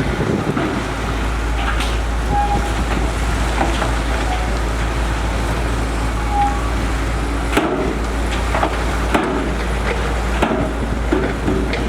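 Heavy construction machinery running steadily with a deep engine rumble, with a few sharp knocks and clanks in the second half and two brief squeaks.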